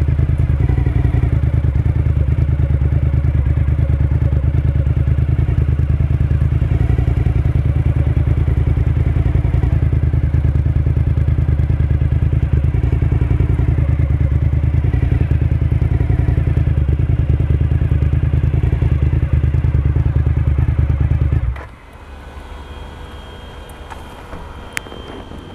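Suzuki SV1000S's 90-degree V-twin engine running steadily with a deep pulsing note, cut off suddenly about 21 seconds in. A much quieter sound with a faint high whine remains after it.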